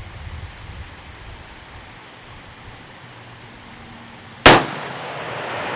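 A single 6.5 Creedmoor rifle shot about four and a half seconds in, a sharp crack whose report rolls away over about a second, over light wind noise.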